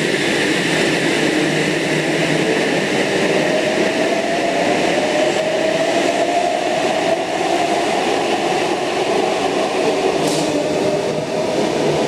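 Eight-car Oscar (H set) double-deck electric train departing an underground platform. It runs with a steady rumble, and a traction-motor whine rises in pitch from a few seconds in as the train gathers speed.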